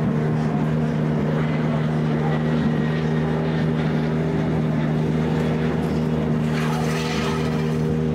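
Touring car engine running at a steady, unchanging fast idle, with a brief hiss about six and a half seconds in.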